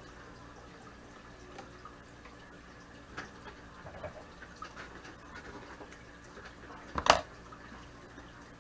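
Light, irregular clicks and handling noises at a vintage Singer sewing machine as a seam is finished, with one sharp clack about seven seconds in, over a faint steady hum.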